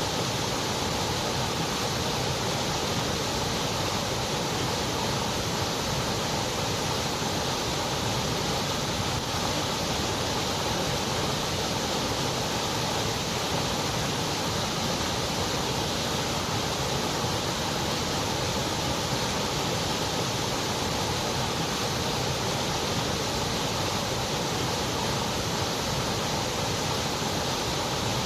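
Continuous white noise: an even, unbroken hiss that stays the same throughout.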